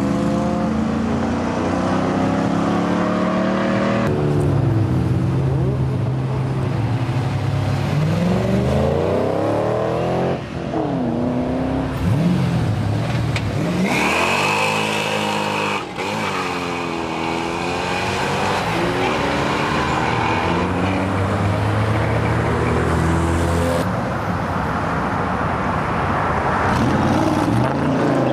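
Performance car engines revving and accelerating hard, a string of short clips cut together. The engine pitch climbs and falls with each rev, and there is a brief high whine around the middle.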